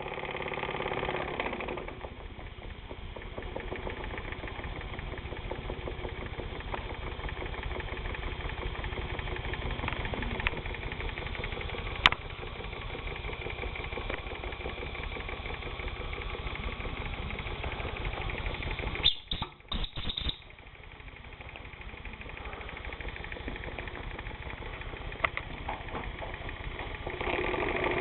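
Wilesco toy steam engine running steadily with a fast, even beat. A sharp click about twelve seconds in, and the sound briefly cuts in and out around twenty seconds; it gets louder near the end.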